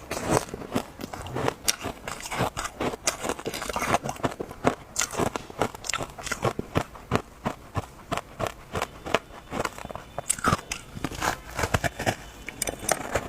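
Frozen matcha ice being bitten and crunched between the teeth: a quick, irregular run of sharp crunching cracks, several a second.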